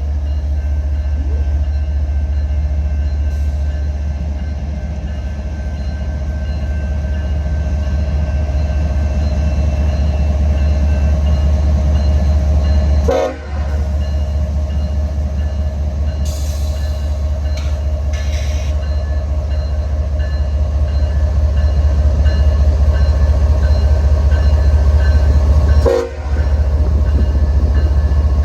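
CSX freight train's diesel locomotives pulling out, with a loud, steady deep rumble. Steady higher tones lie over the rumble, and the sound briefly drops out twice, about thirteen and twenty-six seconds in.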